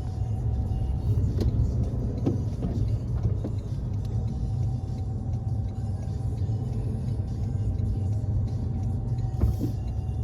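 Steady low rumble of a motor vehicle running, with a faint steady tone above it and a few light clicks.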